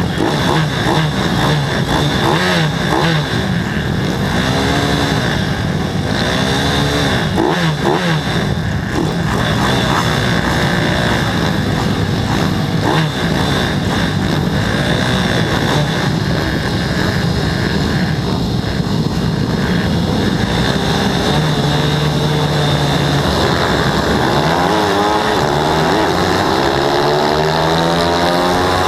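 Several racing pit bike engines revving hard and overlapping, their pitch rising and falling as the bikes accelerate, shift and pass by, with a stronger rising sweep near the end.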